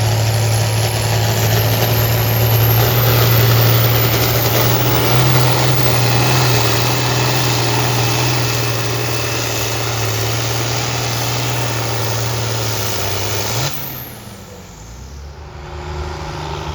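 Tractor engine running hard and steady under load as it pulls the sled. Near the end the throttle is cut: the engine note flicks up for a moment, then falls sharply to a much quieter low run.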